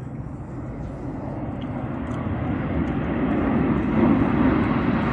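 Blue Angels jet approaching, its engine noise a rumble that grows steadily louder and brighter.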